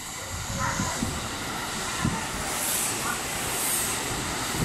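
A JR 681 series electric limited-express train passing through the station without stopping. The wheels rumble on the rail with a rushing hiss that gets louder about half a second in, and a few low thumps come as the cars roll by.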